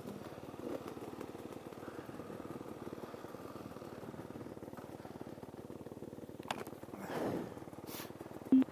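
Off-road motorcycle engine running at low revs, its firing pulses steady, with a brief rise in revs about seven seconds in. A short, loud blip comes just before the end.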